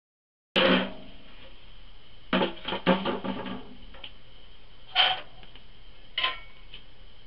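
Metal clanking while wood ash is cleaned out of a wood stove or furnace: a loud ringing clank about half a second in, a cluster of knocks and rattles a little after two seconds, then single knocks near five and six seconds.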